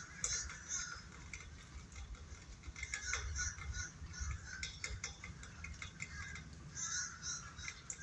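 Birds calling in the background, short calls repeated every second or so, with scattered faint clicks and a low rumble underneath.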